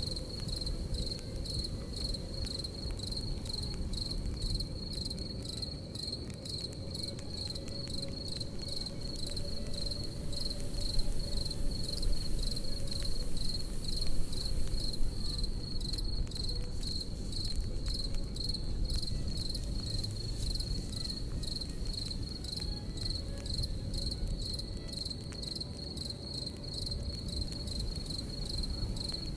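Crickets chirping in a steady, rapid high-pitched pulse over the low rush and scattered crackling of a campfire. The crackles grow a little louder near the middle.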